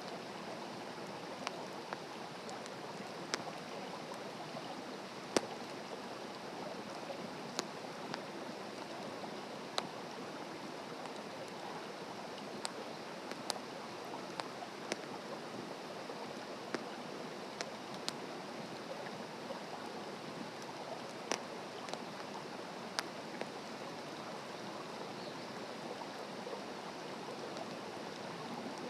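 Wood fire burning on open ground: irregular sharp crackles and pops, about one every second or two, over a steady hiss.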